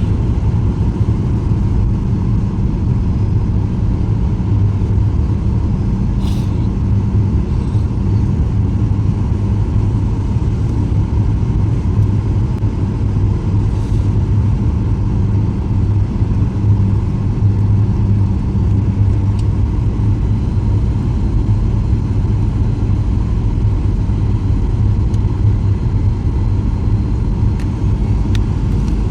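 Steady cabin noise inside a Boeing 737-800 in flight: the CFM56-7B engines and airflow make a constant deep rumble with a low hum.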